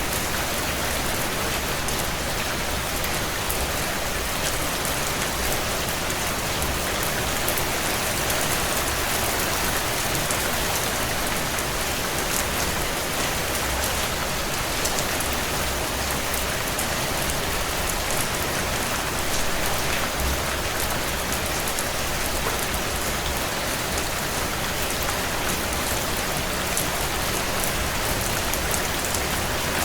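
Steady heavy rain against window panes, with scattered small crackles from a wood fire burning in a stone fireplace.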